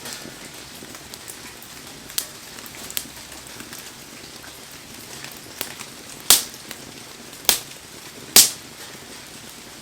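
Wood fire burning in heavy rain: a steady hiss of rain under scattered crackles of burning wood, and three loud, sharp pops in the second half, about a second apart.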